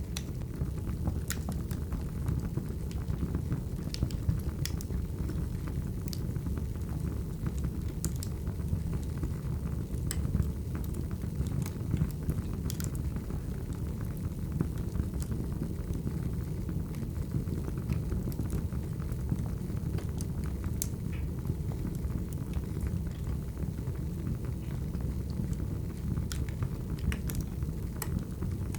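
Burning firewood: a steady low rumble of the fire with irregular sharp crackles and pops, about one a second.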